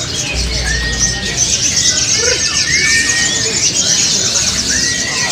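Many caged sogon birds singing at once in a contest: a dense, continuous chatter of high chirps, with clear whistled notes breaking through a few times, over a low background murmur.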